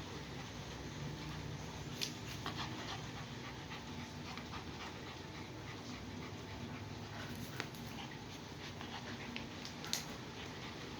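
Puppy panting, with scattered small clicks and knocks, the sharpest about two seconds in and near the end.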